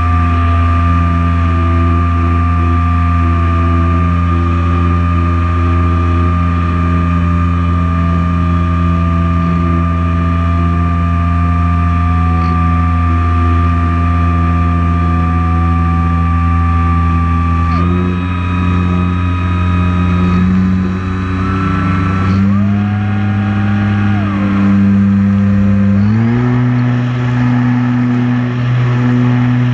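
Multirotor drone motors and propellers whirring steadily as one loud hum. The pitch steps to new levels about two-thirds of the way through and again near the end as the throttle changes.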